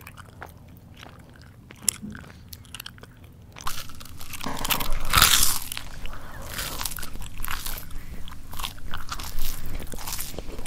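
Close-up mouth chewing of crunchy food, soft and clicky for the first few seconds. About four seconds in comes a louder crunching bite, the loudest moment, followed by steady crunchy chewing with wet mouth clicks.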